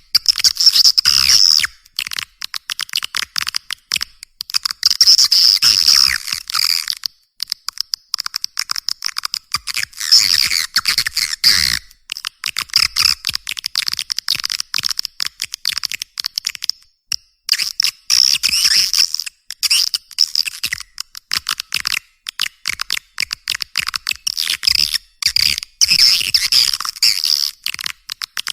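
Swiftlet call recording (suara panggil walet), a lure sound for attracting swiftlets to a nesting house: dense, rapid high twittering chirps in clusters a few seconds long, broken by short gaps.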